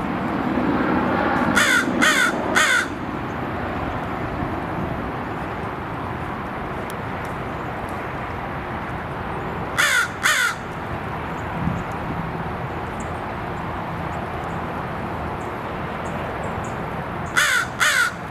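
Crow cawing: three harsh caws in quick succession, then two more about ten seconds in and two near the end, over steady background noise.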